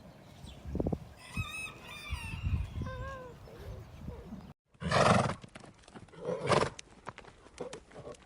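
Horse vocalising: a short, wavering whinny in the first half, then, after a brief cut, two loud breathy snorts about a second and a half apart.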